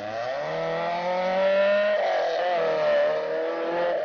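Peugeot 309 rally car's four-cylinder engine revving hard as the car accelerates away, the pitch climbing, dropping at a gear change about two seconds in, then climbing again.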